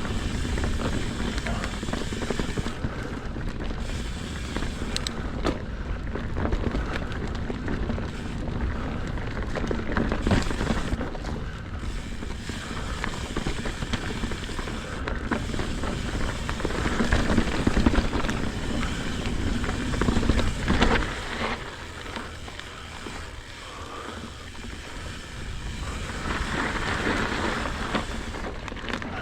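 Mountain bike riding over a frozen dirt trail: tyres rolling on hard ground, with scattered clicks and rattles from the bike and wind rumbling on the action camera's microphone.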